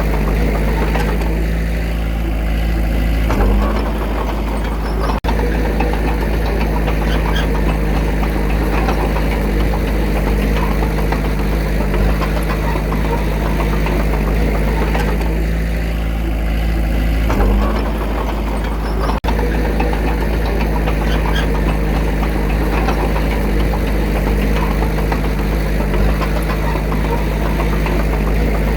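Diesel engine of an earthmoving machine running steadily under work. The engine note shifts in a repeating cycle about every 14 seconds, with a brief surge each time.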